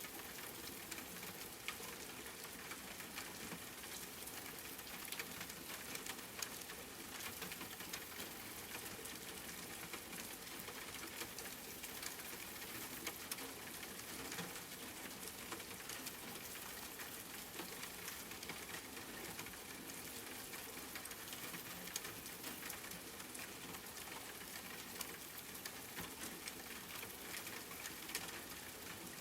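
Rain falling steadily: an even hiss dotted with the ticks of single drops.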